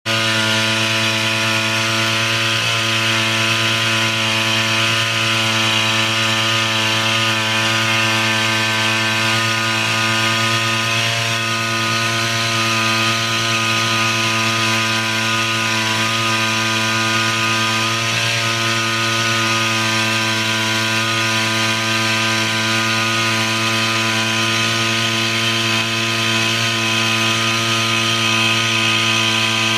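Small engine of a power sprayer running steadily at one constant speed, with a steady hiss of air and spray over it.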